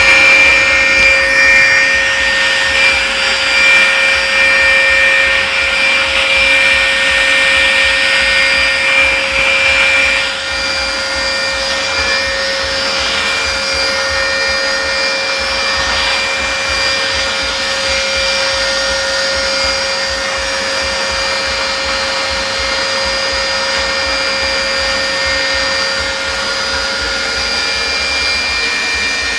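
Vacuum cleaner running steadily, a rushing noise with a held whine in it; it is louder for about the first ten seconds, then drops a little in level and stays even.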